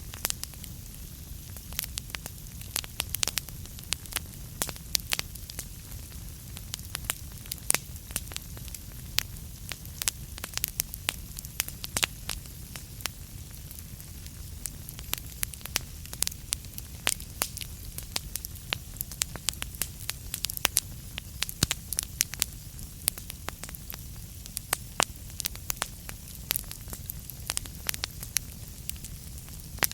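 Burning wood fire crackling: irregular sharp pops and snaps, several a second, over a steady low hiss and rumble of the flames.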